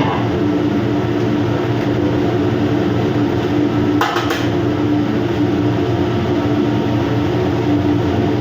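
Steady machinery drone with a constant low hum, with a short clatter about four seconds in.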